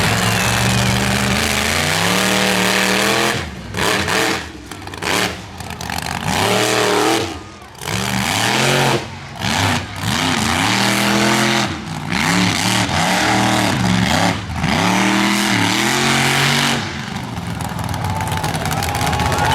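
Monster truck engine revving hard, then blipped on and off the throttle over and over, the pitch climbing and dropping with each stab, before settling into steadier running near the end.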